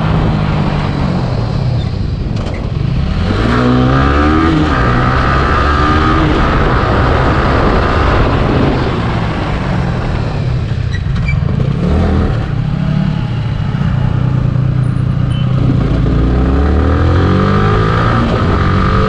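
Yamaha R15 V3's single-cylinder engine running hard under acceleration, its pitch climbing several times as it revs out.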